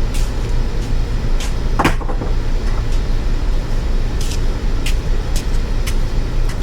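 Light metallic clicks and clinks of hand tools being handled, about eight scattered through, over a steady low hum.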